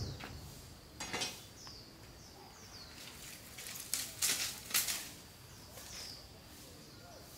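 Small bird chirping in short falling notes, repeated every half second or so, while a few short clattering scrapes and knocks sound about a second in and again around three to five seconds in.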